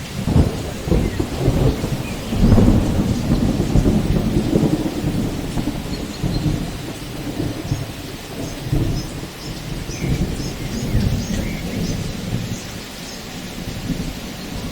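Steady rain with a long roll of thunder that swells about half a second in, is loudest a couple of seconds in, and slowly rumbles away.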